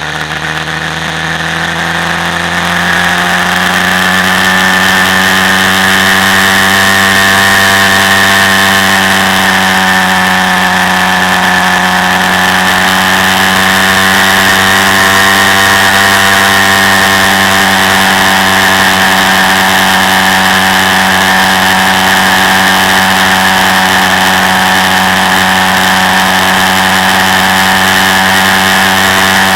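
Quad bike engine running, its pitch and loudness rising over the first few seconds and then holding at a steady speed with only a slight waver.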